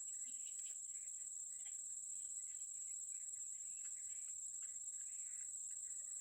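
Steady, high-pitched insect drone, with faint short bird chirps scattered throughout.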